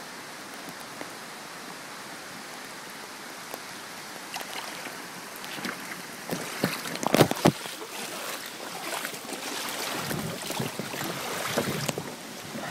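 Floodwater: a steady rushing hiss for the first few seconds, then irregular splashing and sloshing from about six seconds in, loudest a little after seven seconds.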